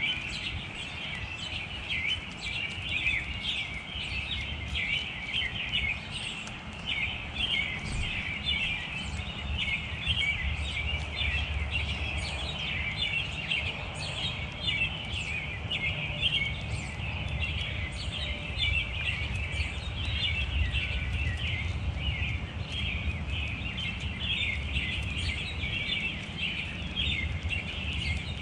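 A flock of small birds chirping continuously, many calls overlapping, with a low rumble underneath.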